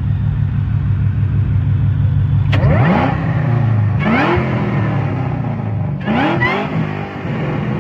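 A car engine idling steadily, then revved three times, each rev rising quickly in pitch and dropping back, roughly a second and a half to two seconds apart.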